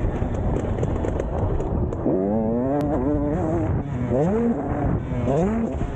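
Motocross motorcycle engine revving, its pitch climbing three times: a longer, wavering climb about two seconds in, then two shorter rises near the end.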